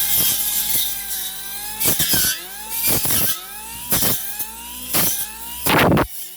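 Cordless brushless brush cutter's electric motor whining, struck about once a second by loud hits as the blunt saw blade bites into bush stems. After each hit the whine climbs back up in pitch as the blade regains speed, and the last hit near the end is the loudest.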